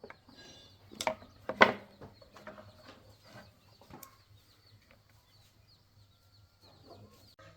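Two short, loud bird calls about a second in, the second louder, over faint high chirping.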